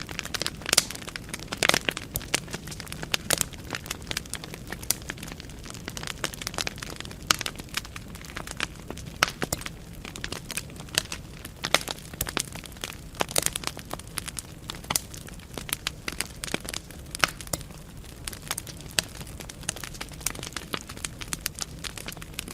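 Wood fire burning in a fireplace: irregular crackles and pops from the burning logs over a low, steady hiss.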